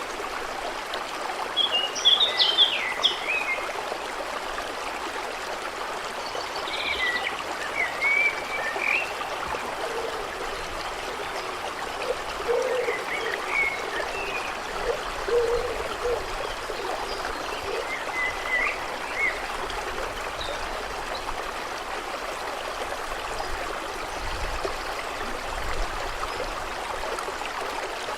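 A stream running steadily, with songbirds chirping in short phrases every few seconds.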